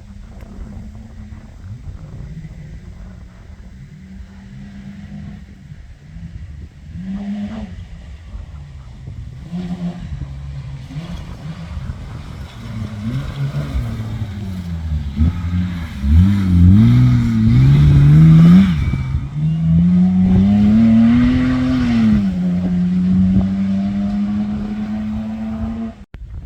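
Competition safari off-road racer's engine under hard throttle, its pitch climbing and dropping again and again, loudest about two-thirds through, then held at a steady high pitch near the end.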